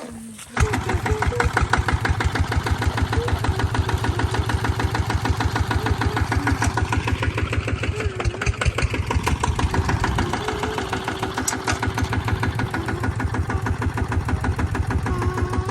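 Tractor engine running close by with a steady, rapid beat. It comes in suddenly, loud, about half a second in.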